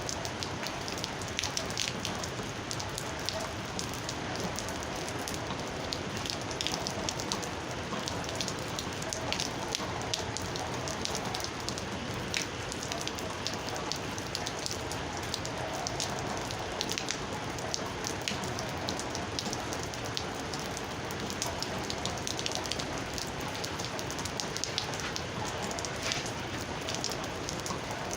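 Steady rain, with many single drops tapping sharply and irregularly close by.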